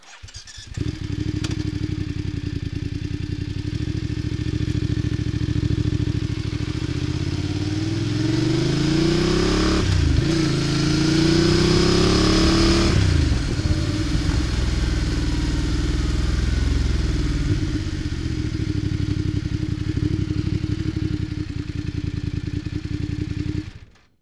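Voge DS 900 X's 895 cc parallel-twin four-stroke, BMW F900-derived, running while the bike is ridden, heard close to its exhaust silencer. It rises in pitch under acceleration, dips sharply about ten seconds in and climbs again, then falls back as the throttle closes and settles to a steady run.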